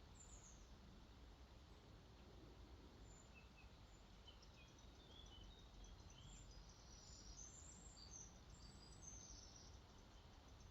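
Faint birdsong, short high chirps and twitters that come thickest in the second half, over a low steady wash of water where a lake flows out into a river.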